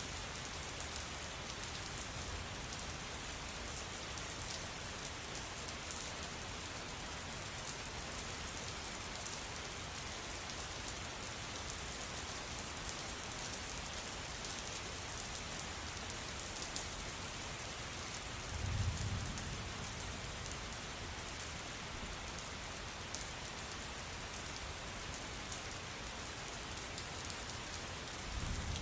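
Steady rain falling, with individual drops ticking through the hiss. About two-thirds of the way through comes a brief low rumble lasting a second or two.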